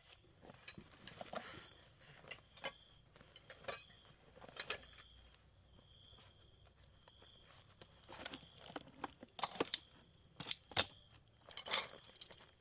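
Crickets chirping steadily, with scattered sharp clinks and knocks of small hard objects being handled, more frequent in the second half and loudest near the end.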